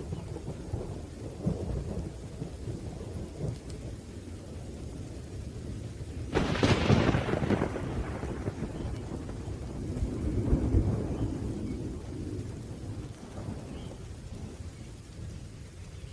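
Thunderstorm: rain falling under continuous low, rolling thunder. A sharp thunderclap breaks about six seconds in and fades over a second or two, and another rumble swells a few seconds later.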